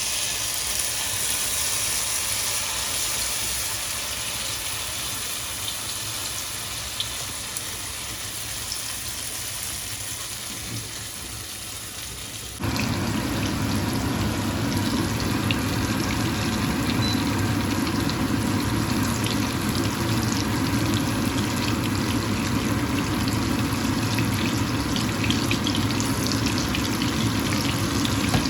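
Tortang talong (egg-dipped eggplant) sizzling in hot oil in a frying pan, a steady hiss flecked with small crackles. About twelve seconds in the sound jumps abruptly louder and fuller.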